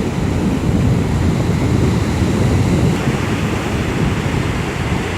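Sea waves washing steadily onto the shore, with wind buffeting the microphone and adding a low rumble.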